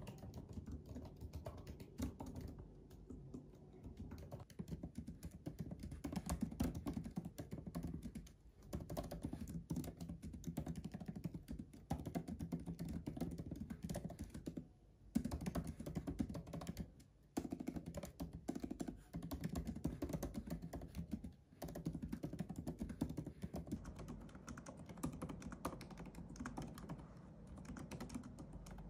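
Continuous fast typing on a MacBook laptop's rubber-dome keyboard: a dense run of key clicks, broken by a few brief pauses.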